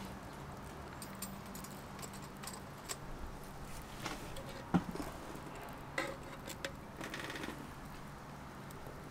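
Scattered small clicks and knocks with one sharper knock about five seconds in, and a short rattle near the end.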